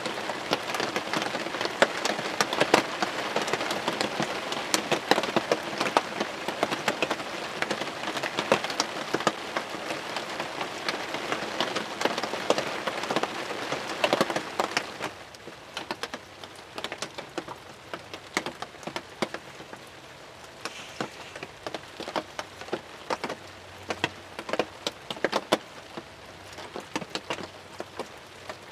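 Heavy rain falling on a hunting ground blind: a dense hiss of many sharp drop impacts. It turns noticeably quieter about halfway through.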